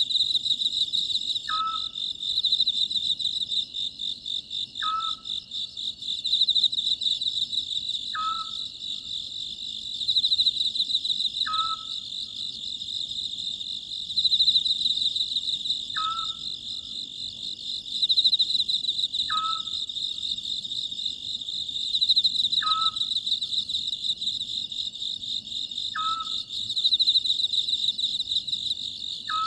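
Oriental scops owl calling, a short falling note repeated evenly about every three seconds, over a steady, dense chorus of crickets trilling.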